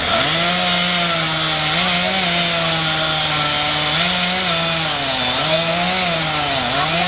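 Gas chainsaw running and cutting through a fallen tree. It starts suddenly at full speed, and its engine pitch rises and dips repeatedly as the chain bites and frees.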